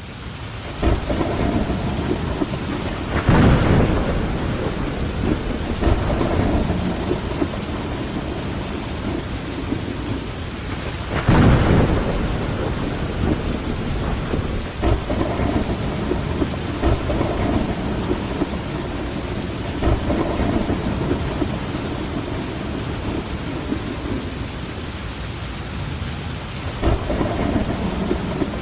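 Steady rain on window glass, fading in at the start, with low rolls of thunder. The biggest rolls come about three and eleven seconds in, with smaller ones scattered through.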